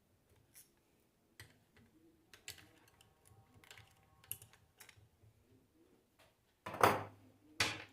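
Small metal parts and tools clicking and clinking as a car alternator is taken apart by hand, with a brief metallic ring in the middle and two louder knocks near the end.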